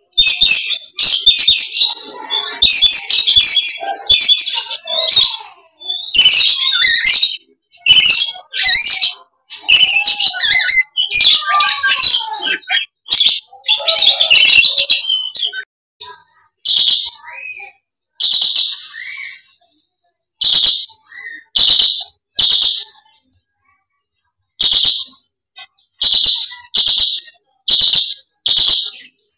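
Lories screeching with loud, harsh, rasping shrieks. For the first half the calls are dense and overlapping; after that they come as single short shrieks, about one a second, with pauses between.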